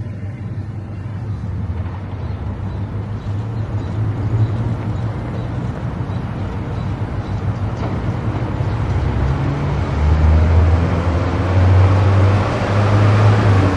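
A car driving on an expressway: a steady low engine and drivetrain hum under tyre and wind noise, which grows louder over the last few seconds.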